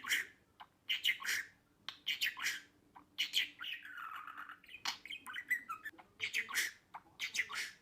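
Budgerigar chattering: a quick run of short chirps and scratchy squawks with brief gaps between them.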